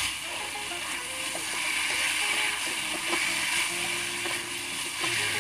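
Chicken pieces sizzling as they fry in hot oil in a pan, a steady hiss.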